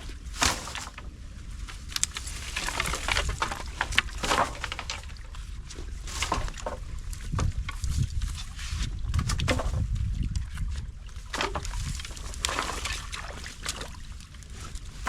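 Water splashing and sloshing, with repeated scrapes and knocks of sticks and rocks, as a beaver dam of sticks and rock is pulled apart by hand in a creek.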